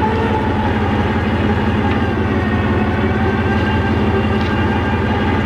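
Harbor Freight electric winch running steadily under heavy load as it drags a truck up a trailer ramp, close to overheating.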